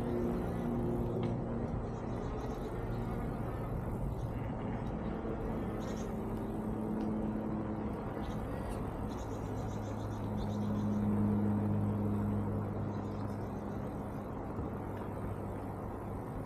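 Folding electric bike being ridden: a steady hum from its 36V 250W rear hub motor under road and wind noise, swelling about ten seconds in.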